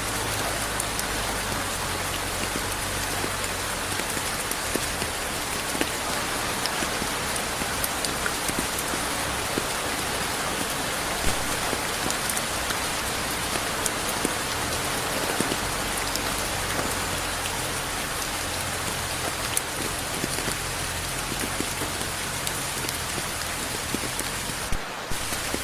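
Steady rain falling, a dense even hiss flecked with many single drops ticking, with no thunder. It dips briefly near the end.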